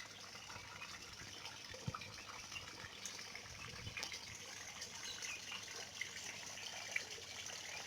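Faint running, splashing water with scattered drips.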